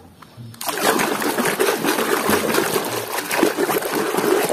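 Running water splashing over a toy cement mixer truck as it is rinsed clean, starting about half a second in.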